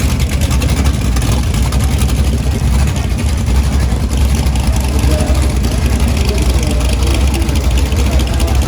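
Car engines running with a steady low rumble and no clear revs or pass-bys.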